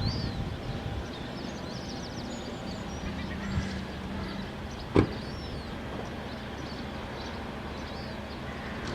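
Outdoor ambience: a steady low rumble of traffic, with faint high bird chirps scattered through and one sharp click about five seconds in.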